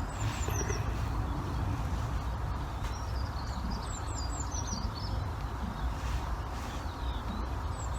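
A small bird singing short runs of high, descending chirps three times, over a steady low background rumble.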